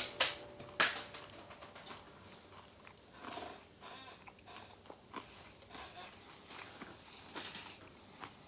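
Faint clicks and rustles of a bolt-action precision rifle being handled between shots, with two sharper clicks in the first second.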